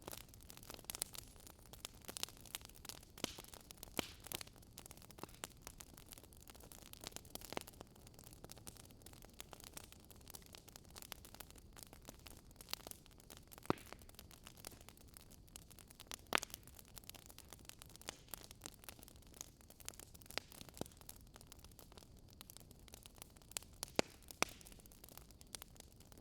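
Crackling fire sound: irregular sharp pops and crackles over a faint steady hiss.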